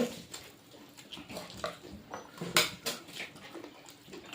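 Eating sounds of a meal taken from a plate: scattered soft clicks and smacks, with light clinks of dishes.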